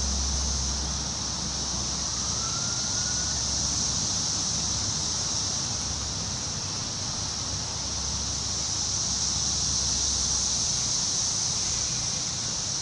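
Wind blowing through trees, the leaves rustling in a steady high hiss, with a low rumble that eases about a second in. A faint, brief rising tone sounds about two seconds in.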